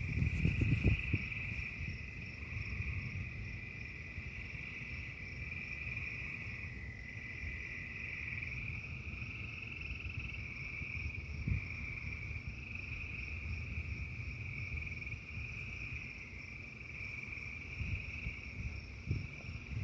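A dense frog chorus: a steady high-pitched trilling that never lets up, with a low rumble underneath.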